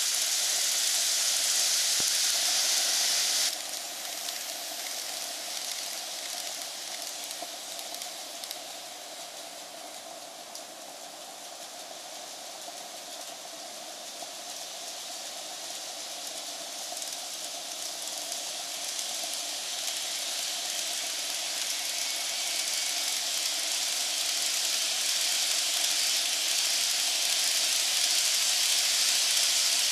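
N gauge model trains running on the track: a steady whirring rumble of wheels on rails and small motors. It drops suddenly about three seconds in, then slowly grows louder again as a train comes nearer.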